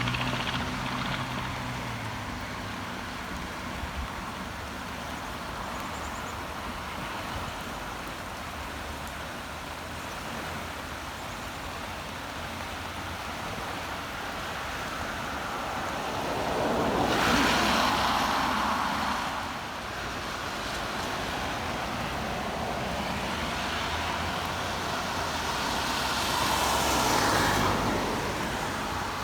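Steady heavy rain with traffic on a wet road. Tyres hiss through standing water as two vehicles pass, one a little past halfway and one near the end.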